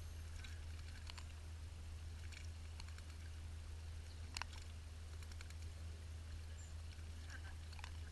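Small garden birds giving scattered short, sharp chips and ticks, a few every couple of seconds, over a steady low hum.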